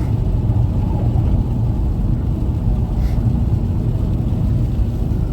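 Steady low rumble of a car cruising on a highway at about 105 km/h, engine and tyre noise heard from inside the cabin.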